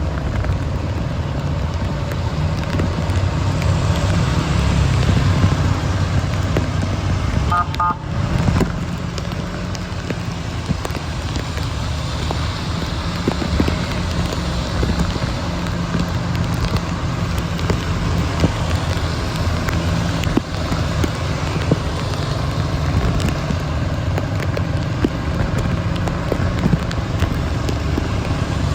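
Steady low rumble of road vehicles in heavy rain, with a dense patter of small ticks throughout.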